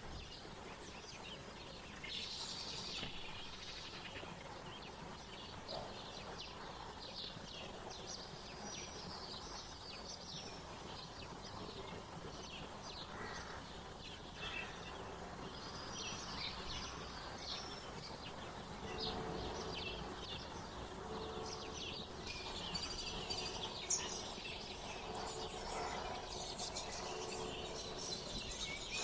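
Wild songbirds chirping and twittering, many short high calls overlapping, over steady outdoor background noise. A low humming note comes and goes in the second half.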